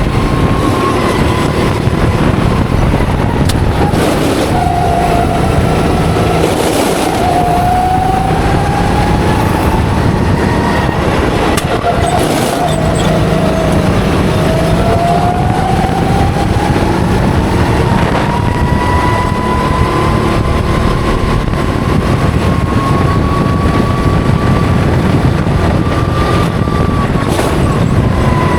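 Go-kart engine running hard from the onboard mic, its pitch dipping as the revs drop twice in the first half and then climbing slowly and steadily, over a constant low rush of wind.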